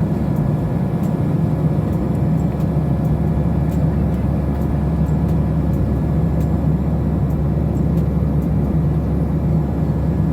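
Steady engine and airflow noise inside an airliner's cabin, with a low hum and a few steady tones.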